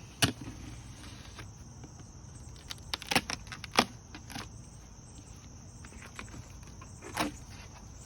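Cardboard packaging being handled and opened: a few scattered sharp knocks and scrapes, over a steady high-pitched background hiss.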